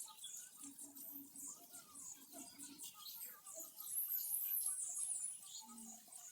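Small birds chirping and twittering in very high, thin squeaks, with a louder run of high twittering about four seconds in. A faint low repeated note sounds under them early on.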